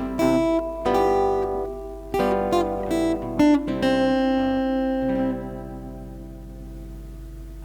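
Acoustic guitar strumming chords. About four seconds in it settles on a last chord that rings out and fades, leaving a steady low hum.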